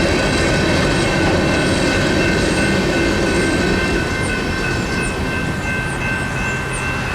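Freight train rolling through a grade crossing, its low rumble fading about four seconds in. Over it, the crossing's General Signals electronic bells ring with steady high tones.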